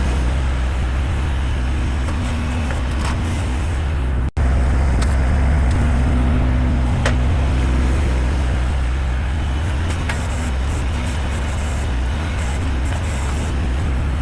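An engine running steadily at a constant speed, with a brief break about four seconds in and a few light knocks over the top.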